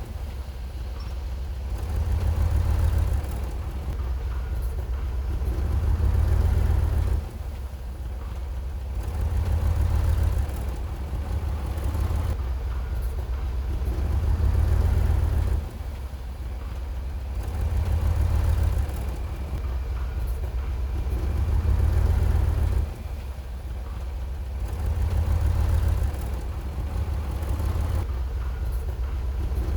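Heavy diesel engine of an earthmoving machine running under load. Its low rumble swells and eases again about every four seconds, and drops off sharply a few times.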